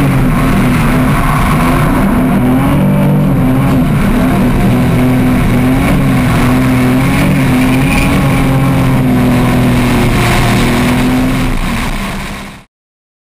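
Drift car's engine running at high revs through a slide, its pitch wavering up and down with the throttle. The sound fades out near the end.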